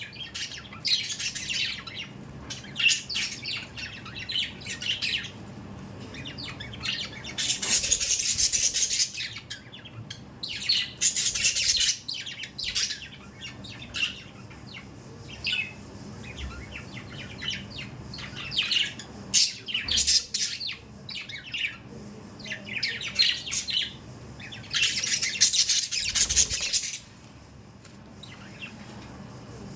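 Budgerigars chirping and chattering continually, many short calls overlapping, with louder stretches of a second or two several times.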